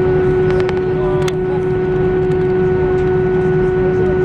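Airbus A320 cabin noise on the ground: a steady, loud hum with one strong tone over a low rumble, and a few light clicks about a second in.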